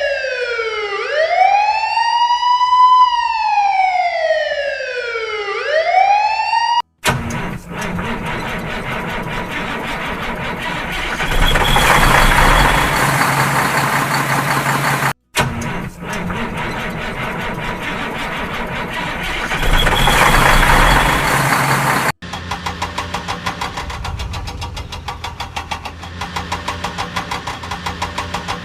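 A siren wailing, rising and falling in pitch, then cutting off abruptly. A vehicle engine follows, running with a steady hum and swelling louder in the middle; the same engine stretch plays twice with a short break between. It gives way to an engine running with a rapid pulsing beat.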